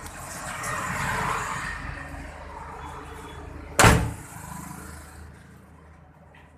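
Truck engine running with a steady low rumble, a hissing swell over the first two seconds, and one sharp, loud bang like a slam a little under four seconds in.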